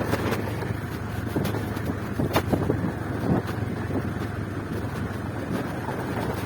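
Motorcycle engine running steadily on the move, with wind rushing over the microphone and a few short clicks or knocks.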